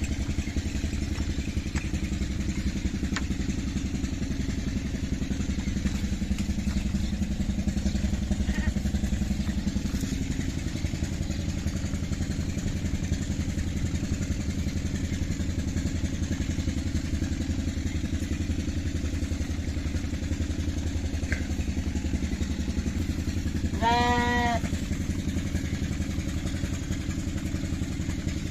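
An engine running steadily, a low even rumble throughout. Near the end a lamb bleats once, a short wavering call.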